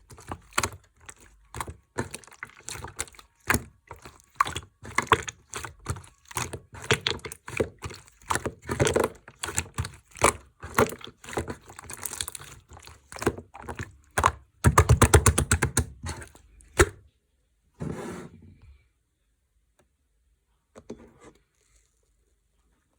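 Slime being pressed, folded and poked by hand, giving a dense run of sticky crackling pops and clicks. The popping gets faster and louder about 15 seconds in, then stops suddenly about two seconds later. One short squish follows, then a faint one near the end.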